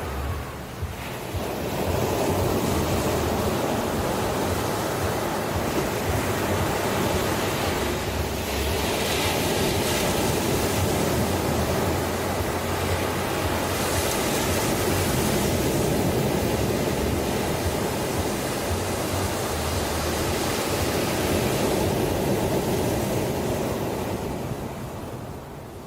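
Ocean waves washing onto the shore, a steady hiss of surf that swells about two seconds in and eases off near the end.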